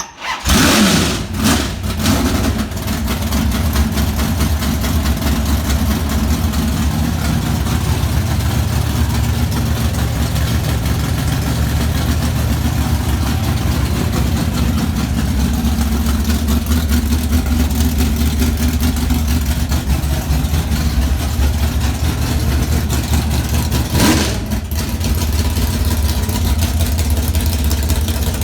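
Freshly built 340 small-block V8 with W2 iron heads in a 1966 Dodge Dart drag car. It has just been started and is blipped hard a few times in the first two seconds, then runs at a loud, mean-sounding idle, with one quick rev about 24 seconds in.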